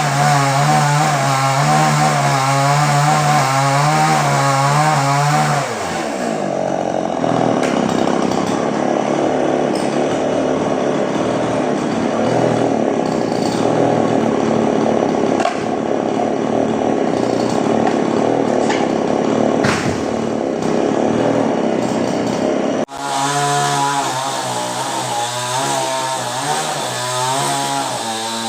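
Chainsaw engine running hard with a wavering pitch, while a coconut tree is being cut. About six seconds in it falls to a lower, rougher sound, and near the end, after a sudden break, it is back to running high with the pitch wavering.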